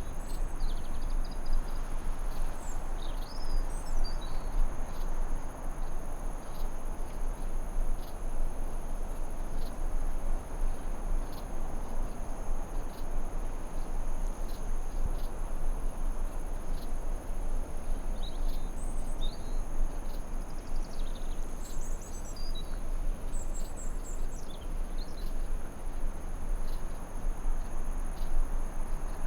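Forest ambience: a steady rushing noise under a continuous high-pitched insect drone like crickets, with small clusters of bird chirps near the start and again about two-thirds of the way through.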